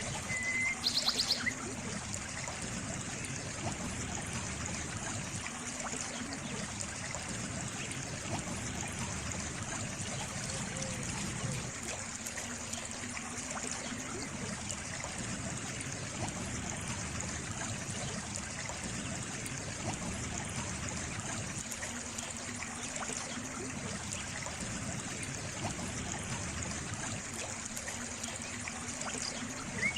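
Water trickling steadily, like a small stream, with a short high chirp about a second in.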